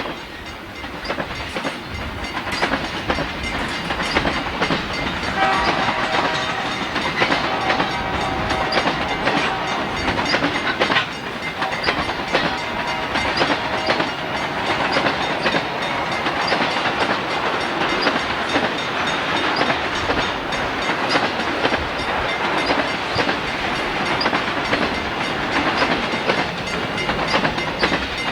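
Freight train rolling past, its steel wheels clicking steadily over the rail joints. A brief pitched tone sounds over it from about six to nine seconds in.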